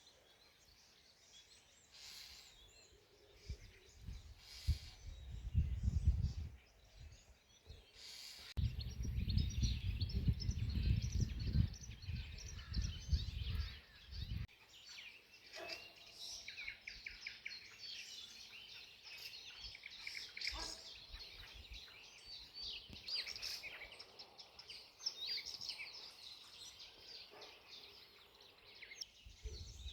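Songbirds chirping and singing, a busy chorus of high, quick notes that grows denser about nine seconds in. Two stretches of loud low rumble, one about four to seven seconds in and a longer one from about nine to fourteen seconds in, cut off suddenly.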